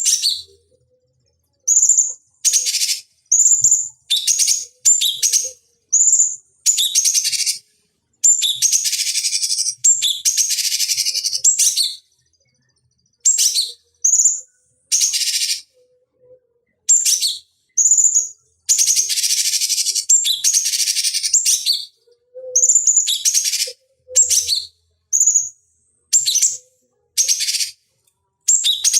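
Cucak cungkok singing loud, short phrases of shrill, harsh notes again and again, with brief silent pauses between them. It is a bird-training recording meant to lure and stimulate caged songbirds.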